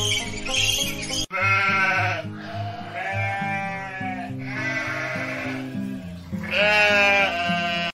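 Sheep bleating: about four long, wavering bleats from a flock, starting just after a second in, over background music.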